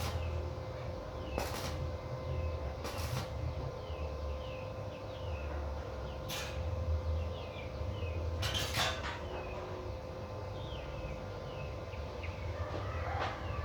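A few separate knocks spaced seconds apart, over a steady hum and low rumble, with small birds chirping throughout.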